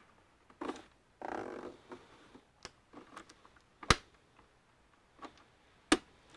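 Handling noises from disassembling an all-in-one computer: two short scrapes or rustles in the first two seconds, then scattered small clicks and two sharp clicks, a little under 4 seconds and about 6 seconds in.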